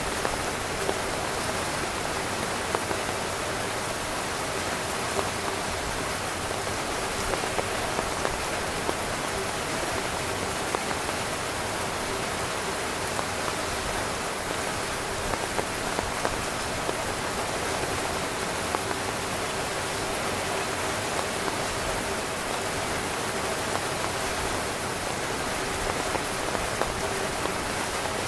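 Heavy rain falling steadily on a tent's fabric: a dense, even hiss with frequent louder individual drop hits.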